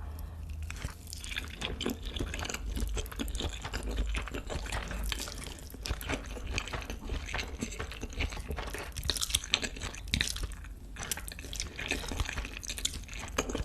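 Close-miked chewing of spicy noodles with melted cheese, with dense, irregular wet mouth clicks and smacks.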